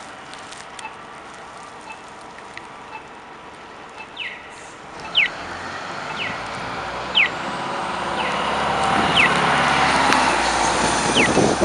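A large motor vehicle drives up and passes on a snowy street: its engine and tyre noise rise from about five seconds in, peak near the end and begin to fade. A short falling chirp repeats about once a second throughout the second half.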